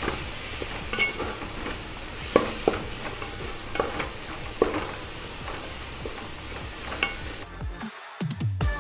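Sliced shallots and onions frying in hot coconut oil in a metal pan, sizzling steadily as they are sautéed with turmeric. A wooden spatula stirs them, knocking and scraping against the pan now and then. The sizzling drops away near the end.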